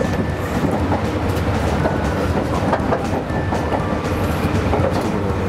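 Meitetsu electric train running over points into a terminal platform, heard from behind the front windscreen: steady running noise with a low hum and wheels clicking over rail joints and crossings.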